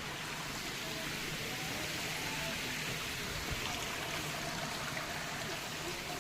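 Flowing water, a steady rushing that swells a little in the middle.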